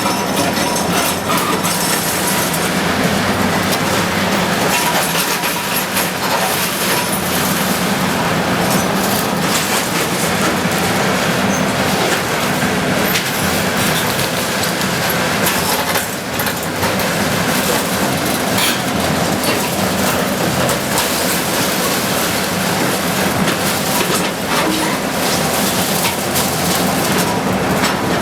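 Bulldozer working: a steady engine drone under continuous metallic clanking and rattling, with a brief lull about sixteen seconds in.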